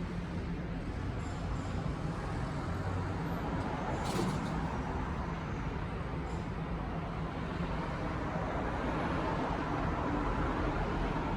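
Steady rumble and hiss of road traffic, with a short sharper hiss about four seconds in.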